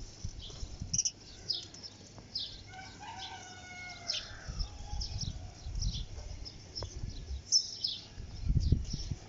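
Small birds chirping over and over in short high notes, with one longer drawn-out animal call about three seconds in. Low rumbling noise comes and goes, loudest near the end.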